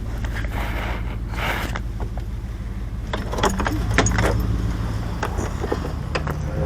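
Vehicle engine running steadily, with a scatter of rattles and clicks, thickest about three to four seconds in.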